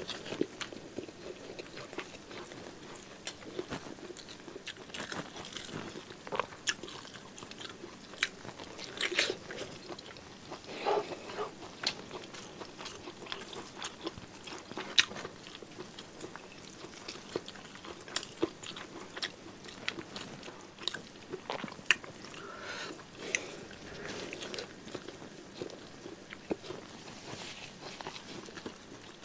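Close-miked eating sounds: a man chewing mouthfuls of rice and beef tongue, with wet mouth clicks and smacks and scattered crisp crunches.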